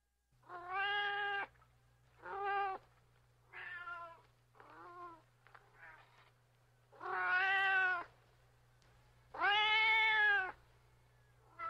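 Domestic cat meowing over and over: about seven separate meows, some short and faint, with the two longest and loudest in the second half.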